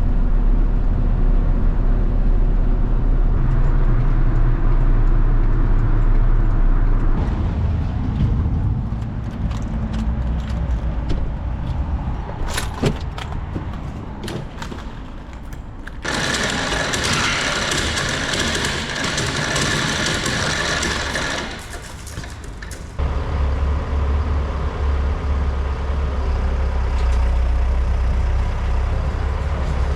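Motor vehicle engine running, its low hum shifting through the stretch, with a loud hiss lasting about five seconds past the middle.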